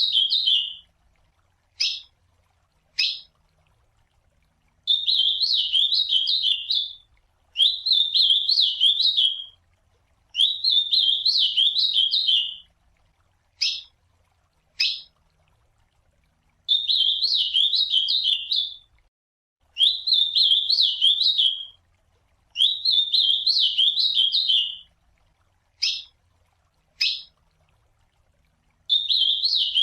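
Ultramarine grosbeak (azulão) singing: a warbled song phrase about two seconds long, repeated some seven times, with short single call notes, mostly in pairs, in the gaps between phrases.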